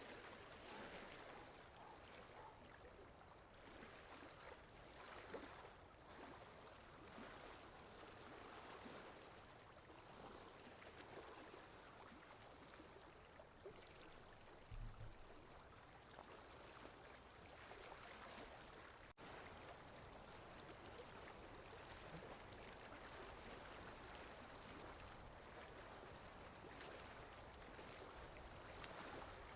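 Steady, soft rain falling, an even hiss of many small drops. A brief low thump about halfway through.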